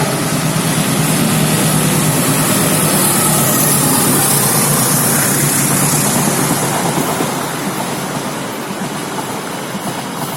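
A train passing close by, a loud steady rumble that slowly fades over the last few seconds.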